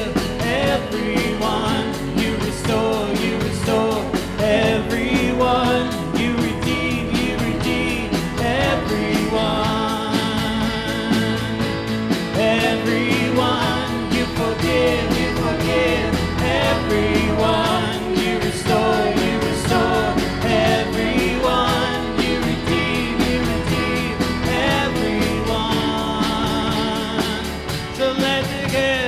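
A worship band playing a contemporary worship song, with singing over guitar and other instruments.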